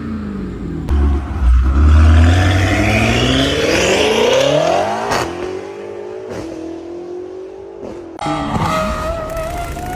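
Car engines in a run of short clips: one accelerates hard, its pitch climbing steadily for about four seconds, then cuts to quieter engines running and revving lightly.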